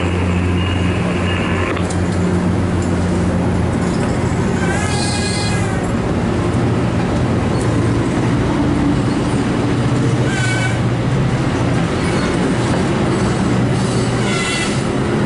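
MARC commuter train's passenger cars rolling past close by: a steady rumble of steel wheels on the rails, with brief high wheel squeals three times.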